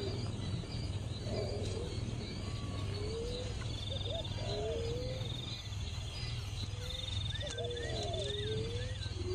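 Birds calling: a series of low whistled calls that glide up and bend over, repeated every second or two. Near the end come a few short, higher chirps, with a faint thin trill and a steady low hum underneath.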